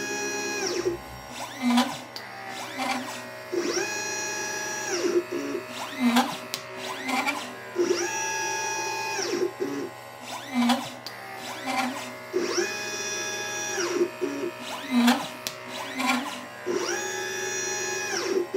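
LitePlacer pick-and-place machine's stepper motors whining as the gantry travels, each move rising in pitch, holding, then falling, in a cycle about every four seconds. Between moves come shorter low whirs and sharp clicks as the nozzle picks and places small capacitors and resistors.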